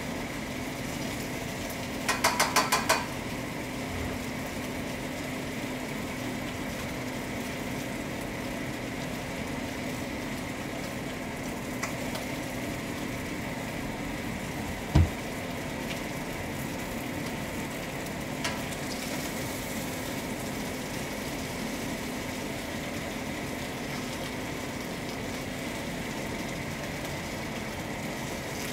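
Chicken sizzling in a stainless steel skillet over a gas flame, a steady frying hiss. About two seconds in comes a quick run of about five clicks from metal tongs, and about halfway through a single knock.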